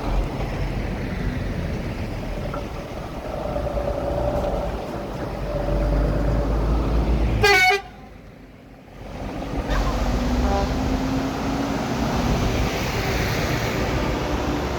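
Truck engines rumbling with air horns sounding several times, some with a single held note and one with a stack of higher notes. The sound drops away sharply for about two seconds in the middle.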